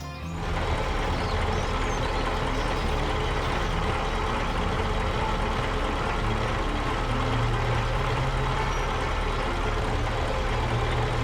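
Heavy vehicle engine running steadily with a low hum, cutting in suddenly just after the start.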